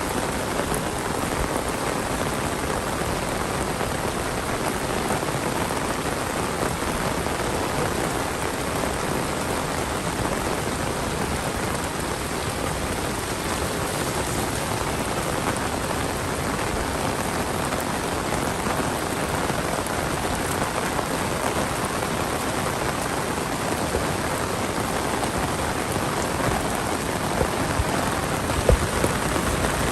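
Heavy monsoon rain, a steady dense downpour pattering on surfaces, with a few sharp drip or drop impacts near the end.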